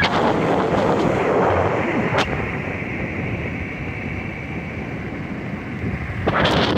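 Wind buffeting the microphone of a camera carried on a moving bicycle: a steady, rumbling rush of noise, with a single click about two seconds in.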